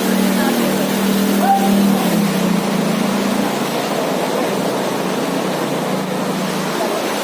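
Loud, steady rush of flowing floodwater, with a low motor hum that fades out after about two and a half seconds and faint voices.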